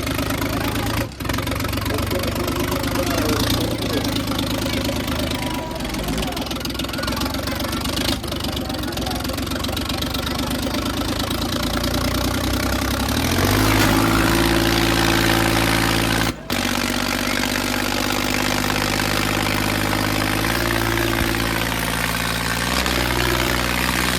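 Tractor diesel engine running hard under load, pulling in a tractor tug-of-war. Its note changes and gets a little louder about halfway through, and the sound breaks off for an instant twice.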